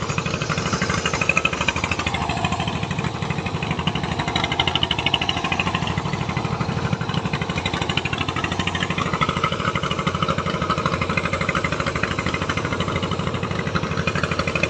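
Boat's single-cylinder 'dompeng' diesel engines, a 24 hp and a 26 hp, running steadily under way with a fast, even knocking beat.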